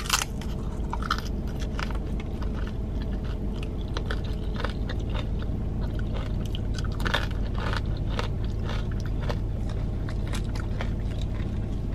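Crunching and chewing of tortilla chips from a nacho platter topped with jalapeños, with a sharp bite right at the start and irregular crackles throughout. A steady low hum runs underneath.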